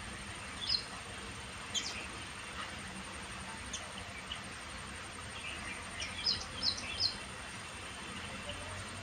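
Birds chirping: short, high calls, one or two scattered near the start and a quick run of four about two-thirds of the way in, over a steady outdoor hiss.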